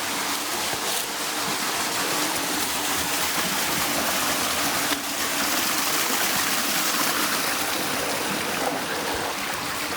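Creek water running steadily, a constant rush of flowing water.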